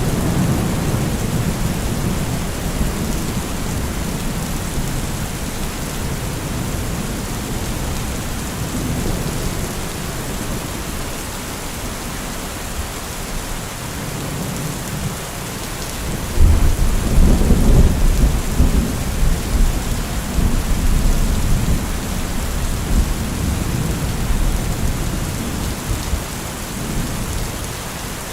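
Heavy rain falling steadily, with a deep low rumble underneath that swells suddenly a little past the middle and slowly fades away.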